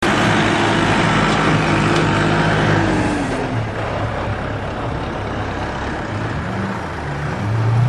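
Engine of a competition pulling vehicle running hard, with its pitch dropping about three seconds in as it eases off. It then runs lower and quieter before picking up again near the end.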